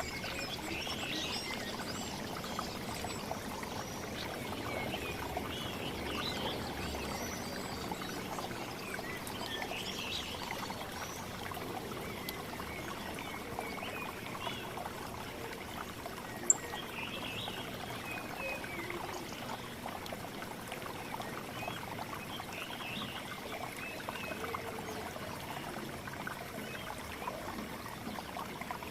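Running water trickling steadily, with small birds chirping now and then over it. A single sharp click about halfway through.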